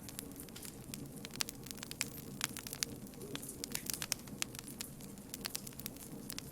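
Campfire burning with a steady low rush, wood crackling and popping in quick irregular snaps.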